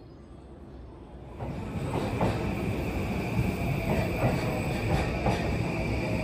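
JR East 185 series electric train pulling out and running past along the platform, growing louder about a second in. Wheels click over rail joints in pairs under a steady high-pitched whine.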